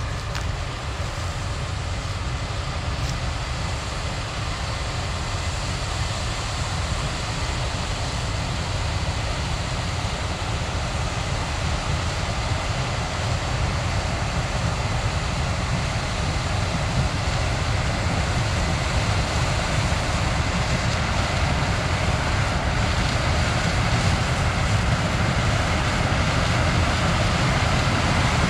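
Combine harvesting corn: a steady, dense machine noise of engine and threshing that grows slightly louder as it goes.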